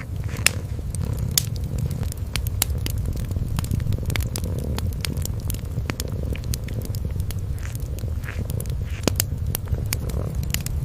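A cat purring in a steady low rumble, with the crackle and sharp pops of a wood fire in a fireplace scattered over it.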